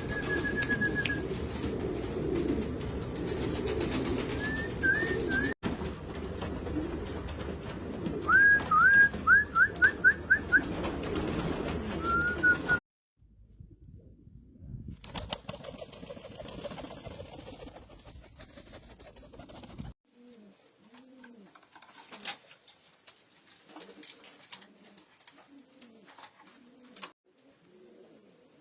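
Pomeranian pouter pigeons cooing, with repeated low arching coos that are clearest in the second half. Short, higher rising calls come in a few bursts in the first half, the loudest run a little past a third of the way in. The sound breaks off and changes abruptly several times.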